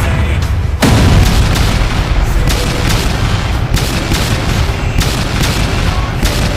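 Loud, continuous battle noise of booms and rapid gunfire-like cracks over a deep rumble, growing louder about a second in.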